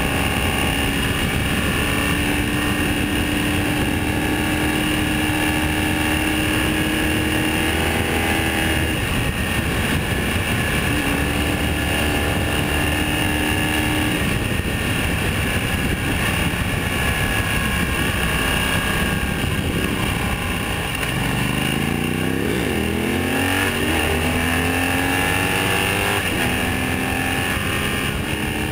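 BMW Rockster motorcycle's boxer twin running under way, heard close from under the headlight with steady wind and road noise. About three-quarters of the way through, the engine revs up in several rising sweeps as the bike accelerates.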